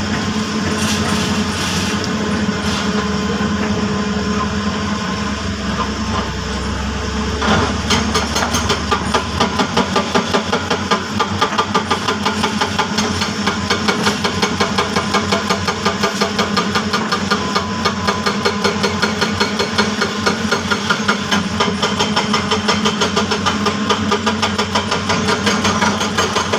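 Diesel engine of a heavy earthmoving machine running steadily; about a third of the way in, it settles into a regular pulsing of roughly four beats a second.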